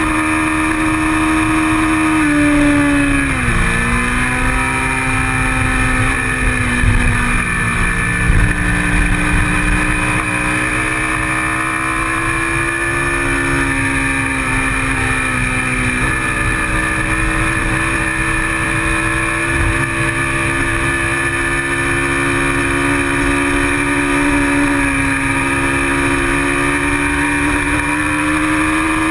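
Kawasaki Ninja 650R's parallel-twin engine at full race pace, heard from an onboard camera with heavy wind buffeting on the microphone. The revs drop sharply about three seconds in, then climb and hold, with another dip about halfway through.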